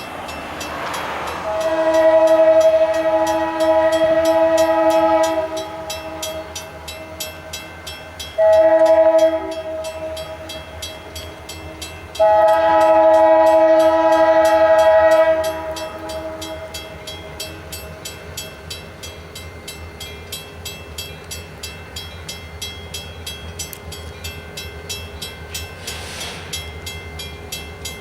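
Diesel locomotive's multi-chime air horn sounding the grade-crossing signal: two long blasts, a short one, then a final long one. A rapid, even ticking and a low rumble of the moving train run underneath.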